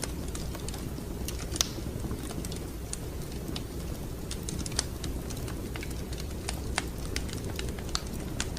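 Wood fire crackling in a fireplace: irregular sharp pops and snaps over a steady low rumble of the flames, with a louder pop about a second and a half in.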